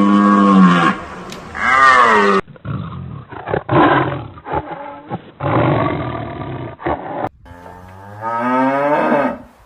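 Three different animal calls cut one after another. First a long, steady pitched call that sags and ends about two seconds in. Then a run of rough, noisy roars and growls, and finally a rising pitched call near the end.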